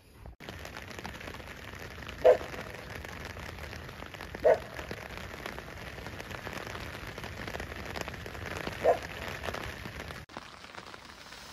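Rain falling on lake water, a steady even patter of drops, with three short louder blips about two, four and a half and nine seconds in.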